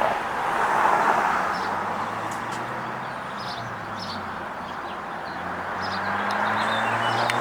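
Road traffic passing, a broad swelling hiss with a low engine hum building in the second half, while small birds chirp in short high notes throughout.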